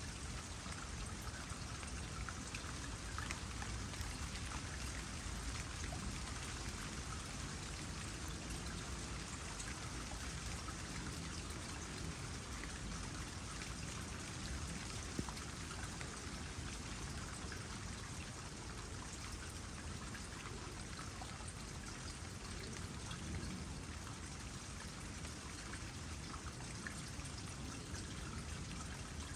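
Water trickling steadily into a small pond, with light rain falling as many small scattered drops and one sharper drip about halfway through.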